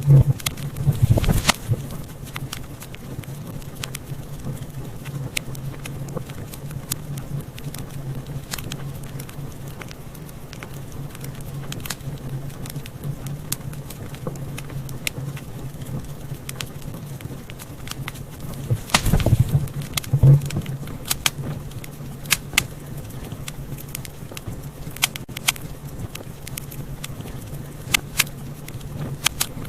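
Wood fire in a fireplace crackling, with a steady stream of small sharp pops and louder flurries of pops near the start and about two-thirds of the way through, over a steady low hum.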